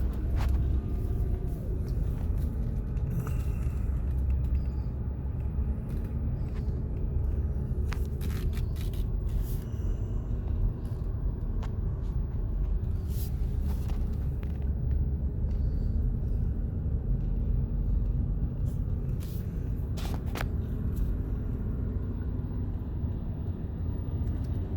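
Car in motion heard from inside the cabin: a steady low rumble of engine and tyre noise, with a few scattered sharp clicks.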